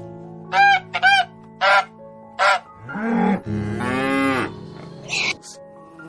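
Farm animal calls over soft, steady background music: four short calls in the first two and a half seconds, then a long, low call from about three to four and a half seconds in.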